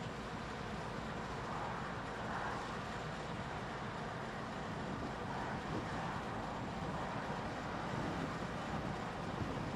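NR class diesel-electric locomotives running, a steady rumble that carries on without a break.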